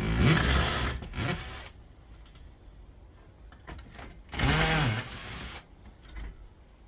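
A small power tool's motor runs in two short bursts, the second rising and falling in pitch, while the aluminium heat-sink plate is being taken off an induction hob's circuit board.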